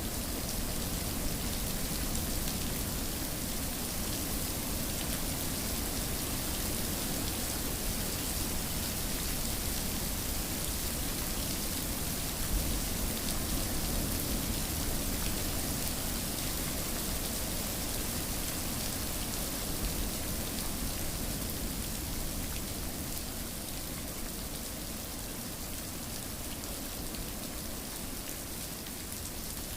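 Steady rain falling, an even hiss of drops with a low rumble underneath, easing a little near the end.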